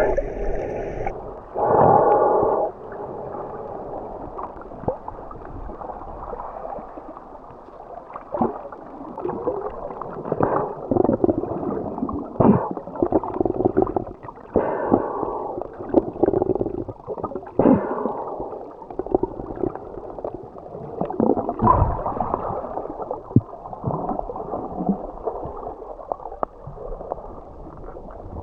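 Muffled water gurgling and bubbling heard through an underwater camera, with irregular surges every second or two.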